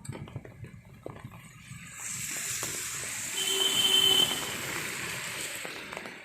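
A vehicle passing along a rain-wet road, its tyres hissing through the water. The hiss swells and fades, with a short high tone at its loudest point about four seconds in.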